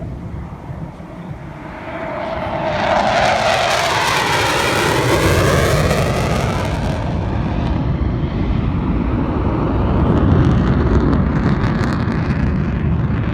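Panavia Tornado's twin RB199 turbofan jet engines passing in a loud flyby: the sound swells about two seconds in, sweeps down in pitch as the jet goes by, then settles into a deep rumble.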